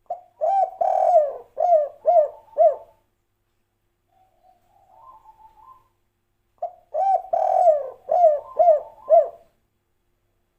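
Spotted dove (tekukur) cooing in the 'kuk 3' style: two loud coo phrases, each a short opening note, a longer held coo and then three short falling notes, with a softer, lower-level cooing phrase between them.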